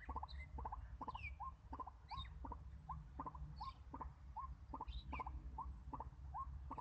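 White-breasted waterhen calling, a rapid run of short repeated notes at about three to four a second, with higher squeaky falling notes mixed in, over a low rumble.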